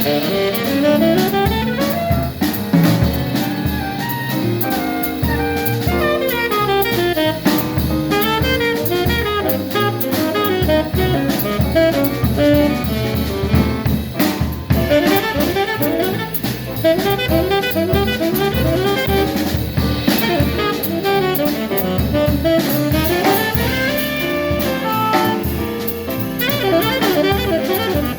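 Live jazz quartet playing: a saxophone runs quick lines of notes up and down over a drum kit keeping time with cymbals.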